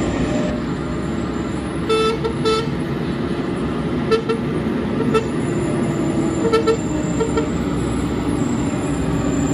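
A series of short vehicle-horn toots, some in quick pairs, over the steady rumble of a heavy truck's engine on the hill.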